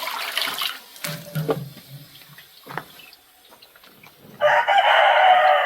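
A rooster crows once, a loud call of just over a second that starts about four and a half seconds in and ends on a falling note. Water runs or splashes briefly at the start.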